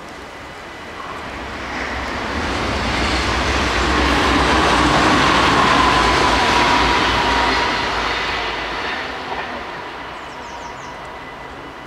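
NS yellow-and-blue double-deck electric passenger train passing over the crossing. The rail noise swells to a peak midway and fades again, with a whine that drops slightly in pitch as the train goes by.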